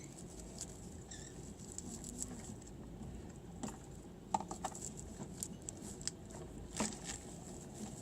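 Faint rustling and light clicking of shred being stuffed by hand into woven finger traps. About four and a half seconds in there are three short squeaks.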